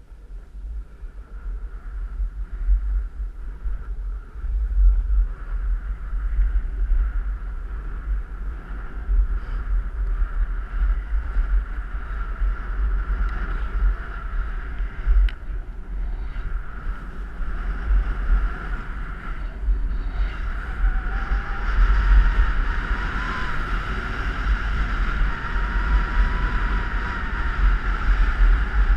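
Wind buffeting the microphone on a fast downhill run on snow, over a steady hiss of the board or skis sliding on the slope. The hiss grows louder in the second half.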